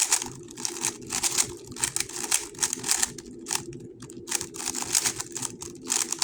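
A GAN 11 M Pro 3x3 speedcube being turned fast during a solve: rapid clicking and clacking of its layers in quick bursts with short pauses between them.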